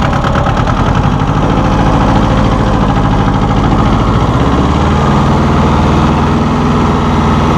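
1984 John Deere 650 compact tractor's three-cylinder diesel engine running steadily, its note shifting slightly about five seconds in.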